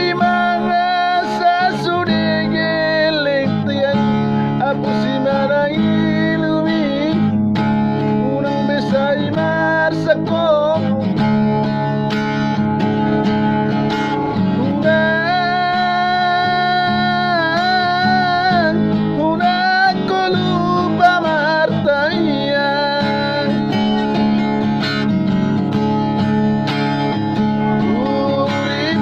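Music: a song with a wavering sung melody over acoustic guitar accompaniment.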